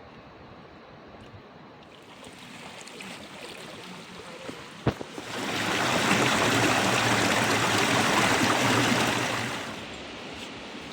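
Rushing water, loud for about four seconds in the middle, after a single sharp click.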